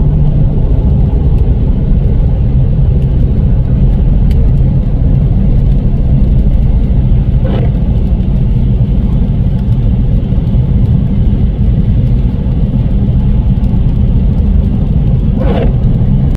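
A car on the move: a loud, steady low rumble of engine and road noise, with two brief higher sounds about halfway through and near the end.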